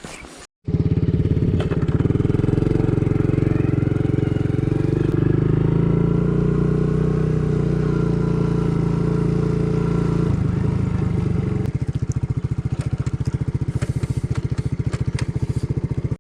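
An engine running steadily with a fast pulsing beat, its note shifting twice near the middle and then settling lower. It starts and stops abruptly.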